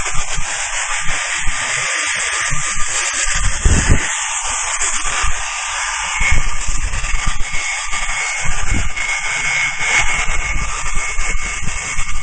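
HB3000+ welding stress relief machine treating a weld: a loud, steady hiss with a faint high tone, broken by irregular low knocks.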